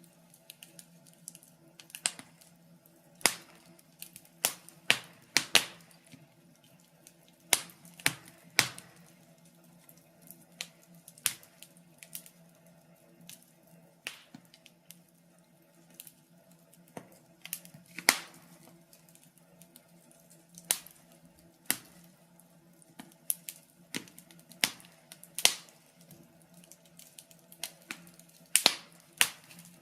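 Wood fire burning in a fireplace, crackling with sharp, irregular pops about once a second, one pop louder than the rest about two-thirds of the way through, over a faint low hum.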